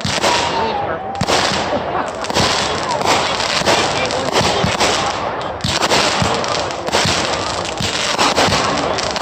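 Consumer fireworks going off in rapid succession: a dense, continuous crackling with many sharp pops and bangs.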